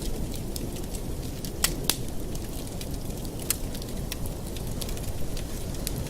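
Wood fire burning in a fireplace: a steady low rumble of flames with irregular sharp crackles and pops, two louder pops in quick succession a little after one and a half seconds in.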